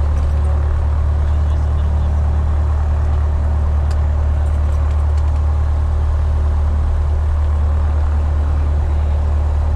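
Piper Warrior's four-cylinder Lycoming piston engine and propeller, a steady, even drone heard from inside the cockpit.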